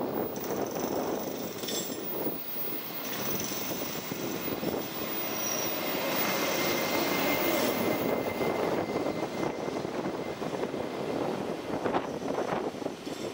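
Taiwan Railway Chu-Kuang Express passenger train running along the platform: a steady rumble and rattle of wheels on rail, with a thin high squeal through the middle.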